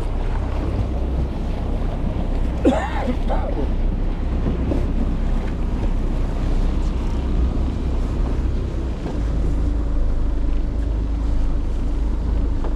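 Wind buffeting the microphone on a boat at sea, over a steady low rumble and the wash of water. A short call that rises and falls in pitch comes about three seconds in.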